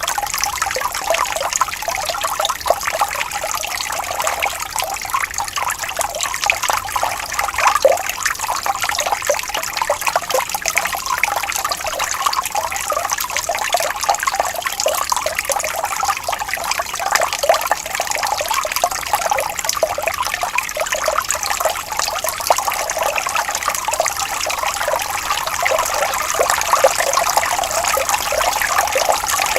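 Small stream of water flowing and trickling steadily, with many small splashes.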